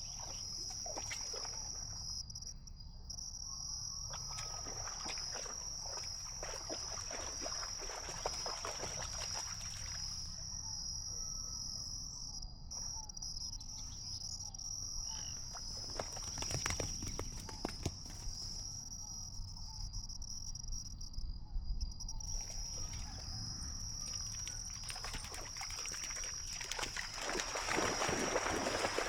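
Steady, high-pitched chorus of insects chirring, with crackly rustling noise that comes and goes and grows stronger near the end.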